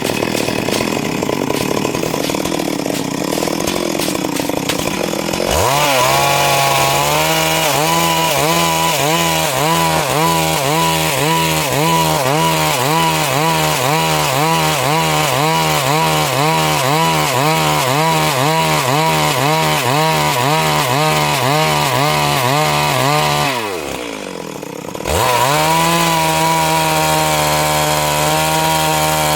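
Stihl MS 382 two-stroke chainsaw ripping lengthwise through a Siris log. The first few seconds are a rough, noisy cutting sound. About five seconds in the engine climbs to a high pitch that wavers regularly about twice a second as it works through the wood. Near the end it drops off briefly, then revs back up and holds steady.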